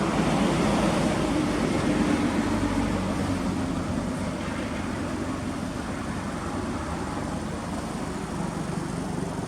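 Toyota Celica ST202's 3S-GE four-cylinder engine running through an aftermarket exhaust, a little louder for the first couple of seconds, then settling to a steady note.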